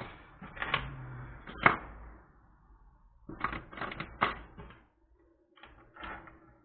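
Small tools and parts clicking and clattering on a workbench as it is tidied, in several short runs of sharp knocks.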